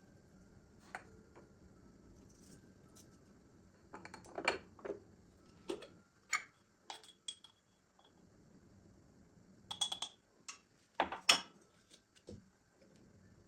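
Kitchen dishes and utensils handled: a scatter of short clinks and knocks, some ringing briefly, in two busier clusters with quieter stretches between.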